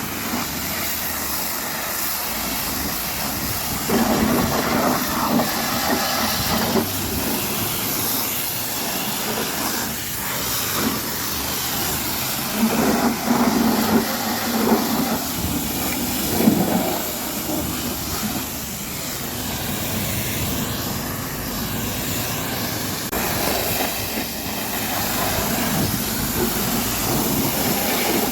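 High-pressure washer spraying water onto the truck, a steady hiss that gets louder in two stretches, about four seconds in and again around thirteen seconds in.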